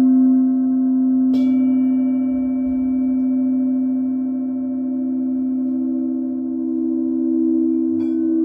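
Singing bowls ringing in long, sustained tones that pulse slowly. A fresh strike about a second and a half in adds a higher tone, and a lighter strike comes near the end.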